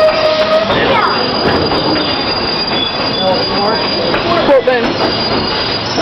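Tweetsie Railroad's narrow-gauge passenger cars squealing and rumbling on the rails as the train rolls in to its stop; one strong squeal cuts off about half a second in while a thinner, higher squeal goes on.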